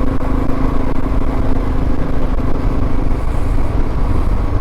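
Suzuki DR650's single-cylinder engine running steadily under way, with wind rumble on the microphone. The engine note eases briefly a little past halfway, then picks up again.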